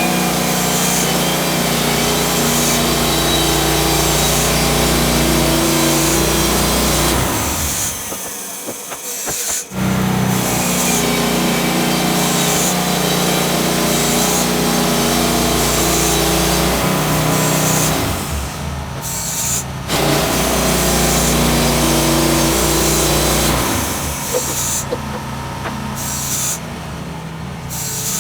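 Portable bandsaw sawmill running with its petrol engine under steady load as it cuts a log, broken by a few abrupt changes where the sound drops and returns.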